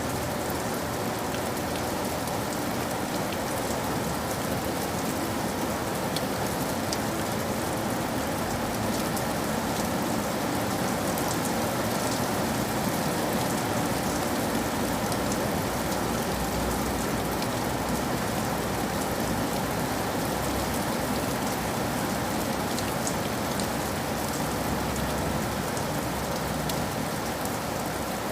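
Steady rain falling on a surface, a dense even patter with fine individual drop ticks.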